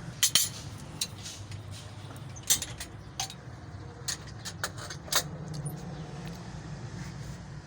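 Scattered sharp metallic clinks and knocks, about a dozen, over a steady low hum.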